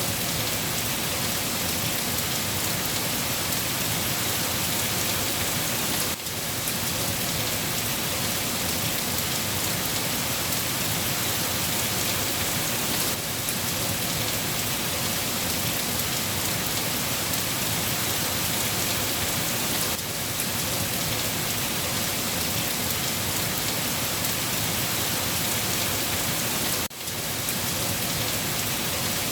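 Steady rain falling, an even hiss with brief dips in level about every seven seconds.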